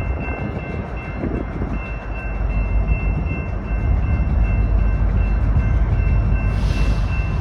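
BNSF coal train rolling through a grade crossing with a heavy low rumble, while the crossing signal's electronic bell rings steadily over it. A short hiss rises briefly about six and a half seconds in.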